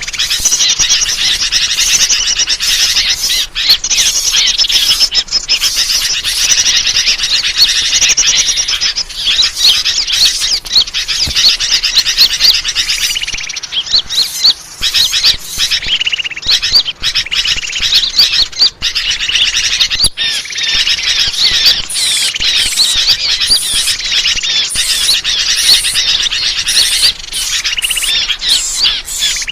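Dense, continuous chorus of many small birds chirping and twittering rapidly, high-pitched and without pause: a bird-lure (pikat) recording meant to draw in wild birds.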